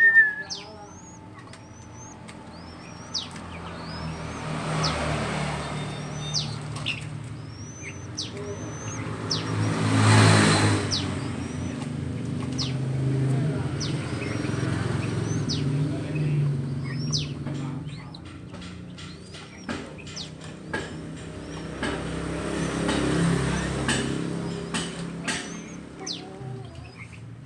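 High, thin bird chirps, short quick sweeps repeated about once a second, while motor vehicles pass several times with a low rumble, the loudest about ten seconds in.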